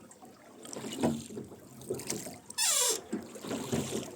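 Oars dipping and splashing as a rowboat is rowed, with one loud oarlock creak that falls in pitch about two and a half seconds in.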